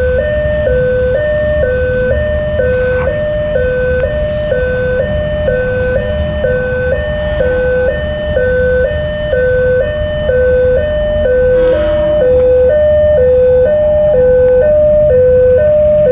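Electronic railway level-crossing warning alarm sounding, alternating steadily between two tones in a repeating chime, over a low traffic rumble.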